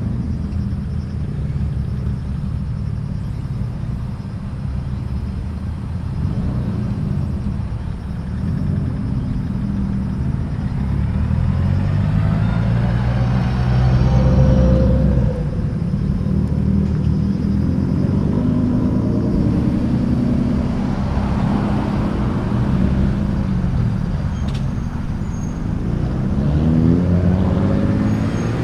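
Car engines running as cars drive off one after another, under a steady low rumble of idling exhaust. The engine notes rise as cars accelerate, loudest about halfway through, with another car pulling away near the end.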